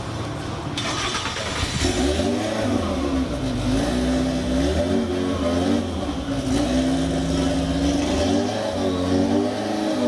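Kimera EVO37's four-cylinder petrol engine being revved repeatedly, its pitch swinging up and down, after a sudden burst of noise about a second in.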